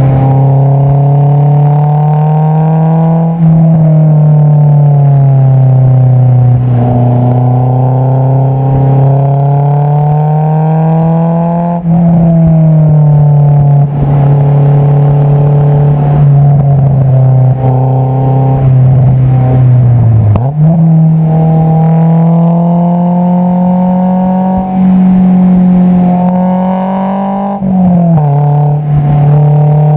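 Honda S2000 AP2's 2.2-litre inline-four heard at the tailpipe through an Invidia Q300 exhaust while driving. The exhaust note climbs and falls with throttle, its pitch stepping down sharply a few times at upshifts and jumping up sharply about twenty seconds in.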